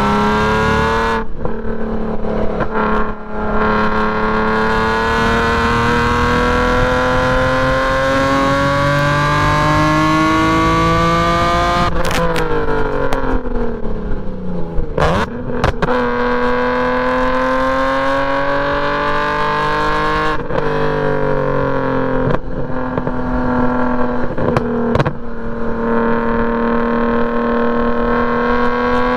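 BMW E46 M3's straight-piped S54 3.2-litre inline-six run hard on a race track. The pitch climbs steadily through a long pull in gear, drops sharply at each upshift, and around the middle falls away under braking with quick downshift blips before climbing again.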